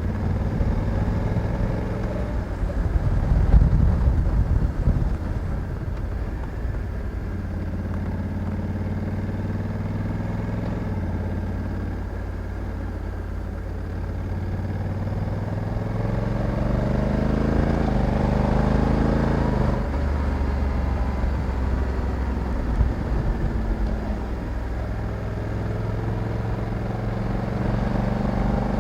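Honda Africa Twin 1100's parallel-twin engine running under way, with a burst of rushing noise a few seconds in. Later the revs rise for a few seconds, then drop suddenly as the DCT gearbox shifts up.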